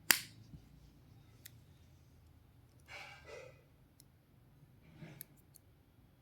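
Hands handling wireless earbuds and their packaging: one sharp click right at the start, then a few faint ticks and soft swishes.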